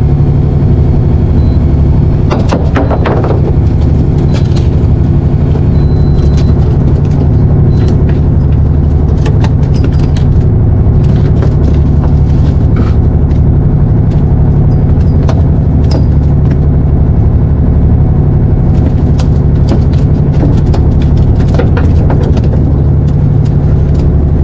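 Fishing boat's engine running steadily and loud, a constant low drone, with scattered light clicks and knocks over it.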